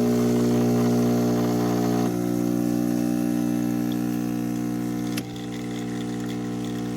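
The 15-bar pump of a Chefman espresso machine running with a steady, loud hum. About five seconds in there is a click and the level drops slightly.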